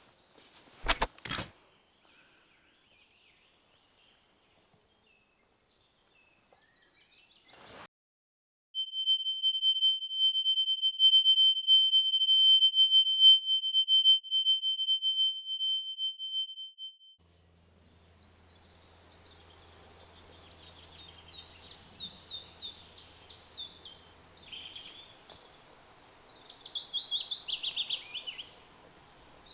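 Two sharp clicks about a second in, then near quiet, then a loud, steady high-pitched ringing tone that holds for about eight seconds and cuts off. After it, small birds chirp and sing in quick high phrases to the end.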